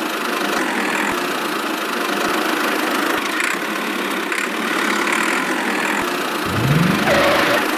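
A small motor running steadily with a buzzing, engine-like sound, a few faint ticks under it, and a short rising tone near the end.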